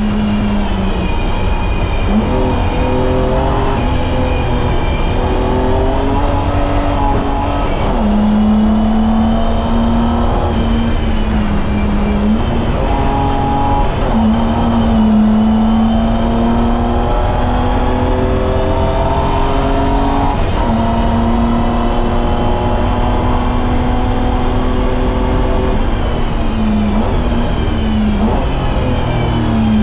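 BMW E30's M20B25 2.5-litre inline-six running hard on track, its pitch climbing and falling over and over, with several sudden drops and steps in pitch from gear changes.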